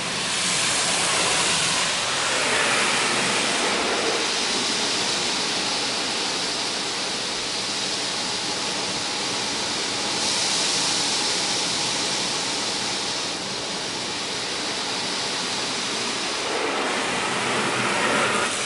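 Belanger Vector touchless car wash spraying rinse water onto the car, heard from inside the car as a steady hiss of spray on the body and glass that swells and fades as the arm passes.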